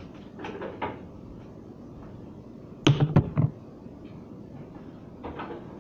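Refrigerator-door contents being handled: jars and bottles knocked and set down in short clatters, with a cluster of the loudest sharp knocks about three seconds in.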